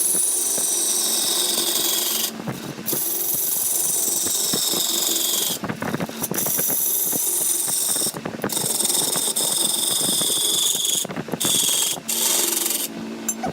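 Wood being cut on a lathe, a turning tool scraping on the spinning wood: a loud, steady rasping cut with high whistling tones, broken by brief pauses every two to three seconds.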